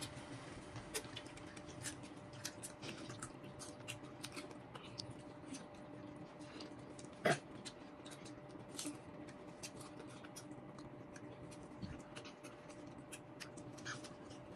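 Quiet mouth sounds of children eating juicy peach slices: small wet clicks and lip smacks of chewing, scattered irregularly, with one short louder mouth or voice sound about halfway through. A faint steady hum lies underneath.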